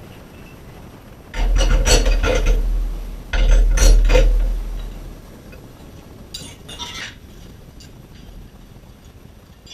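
Bearing-puller tooling clanking against a two-stroke engine case as a stubborn crankcase bearing is worked on: two loud bouts of heavy metal clatter with ringing, then a few lighter clinks. The puller is not getting a good bite on the bearing.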